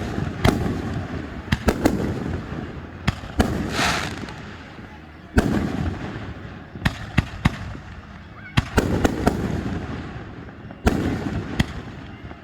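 Fireworks shells bursting in quick, irregular succession: sharp booms, each trailing off in a rumbling echo, with a crackling shell sizzling about four seconds in.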